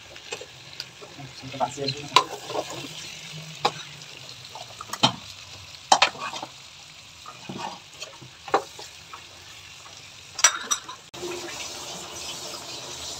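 Pork and vegetables frying with a steady sizzle in a pan, stirred with a spatula that clinks and scrapes sharply against the pot every second or two. Near the end the sound turns to a steadier hiss with a low hum.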